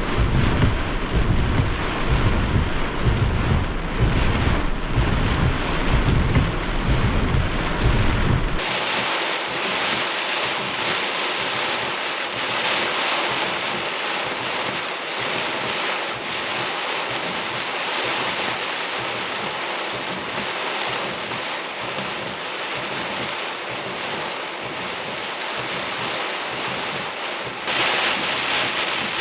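Strong wind gusting across the microphone with heavy rain. About eight seconds in, the wind rumble cuts off suddenly, leaving a steady hiss of heavy rain that grows a little brighter near the end.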